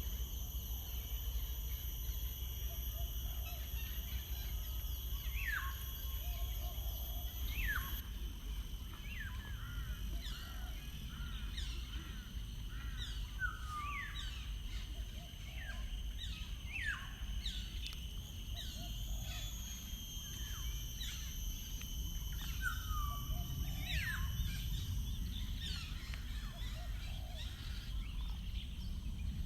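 Wild birds calling: short whistled notes that slide steeply down in pitch, repeated every second or two, over a steady high-pitched hum and a constant low rumble.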